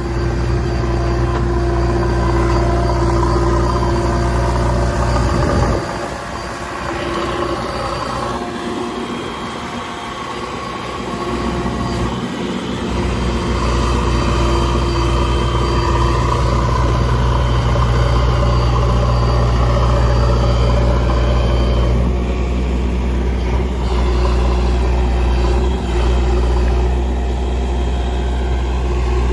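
JCB backhoe loader's diesel engine running steadily. Its low rumble drops away for a stretch from about six to thirteen seconds in, then comes back.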